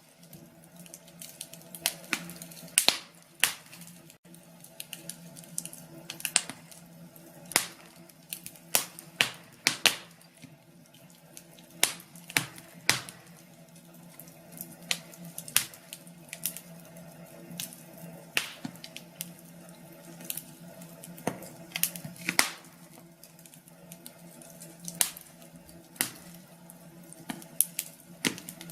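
Wood fire in a fireplace crackling: irregular sharp pops and snaps, some louder than others, over a faint steady low hum.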